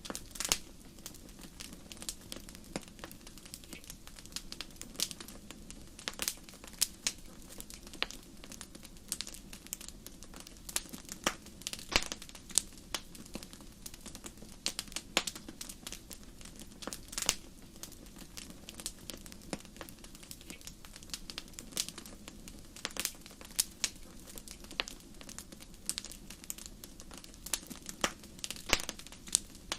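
Wood fire crackling in a fireplace: irregular sharp pops and snaps, some louder than others, over a low steady sound of the flames.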